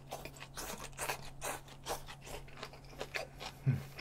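Close-up eating sounds: a person slurping in and chewing a mouthful of crunchy bean sprouts, a quick uneven run of wet clicks and crunches. A short low hum from the eater comes about three and a half seconds in.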